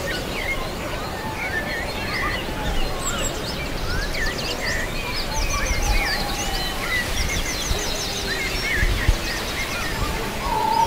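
Several songbirds chirping and singing, short rising and falling calls mixed with quick high trills, over a steady background rush.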